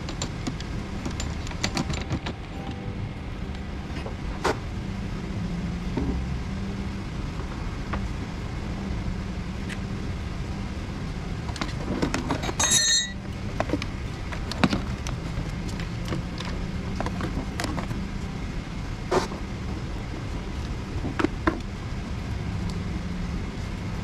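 A vehicle engine running steadily, with scattered clicks and knocks and a brief high squeal about halfway through.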